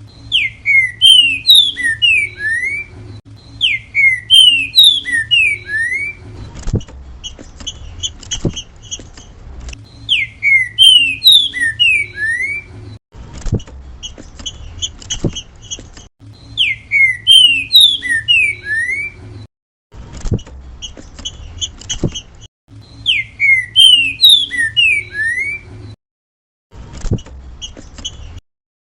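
Green-winged saltator (trinca-ferro) singing its 'grego mole boi' song: phrases of clear, slurred whistled notes, each about two seconds long, repeated every few seconds. Short quick notes fill the gaps between phrases, over a low hum.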